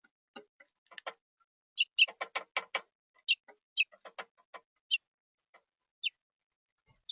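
Animals feeding at a seed feeder: irregular sharp clicks and taps of seed being handled and pecked. A quick run of about five taps comes about two seconds in, mixed with a few short high ticks.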